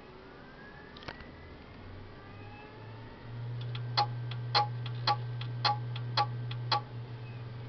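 Buffalo 500 GB external hard drive spinning up with a low hum, then clicking sharply about twice a second, six loud clicks with fainter ticks between them: the abnormal head clicking of a faulty drive.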